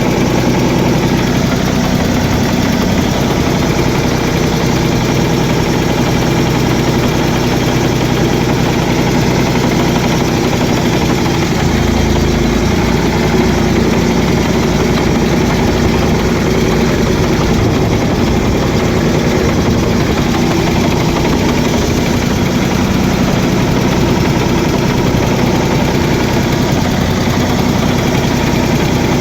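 1970 Ford tractor engine running steadily, its low note shifting about twelve seconds in.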